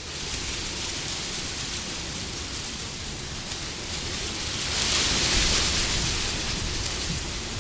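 Wind blowing as a steady rushing noise, with a gust swelling up about five seconds in and easing off again.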